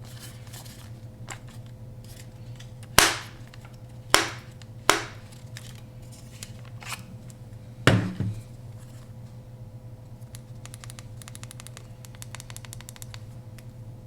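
Hard objects being handled close to the microphone: four sharp clicks or knocks spread over several seconds, then a quick run of small ticks. A steady low hum runs underneath.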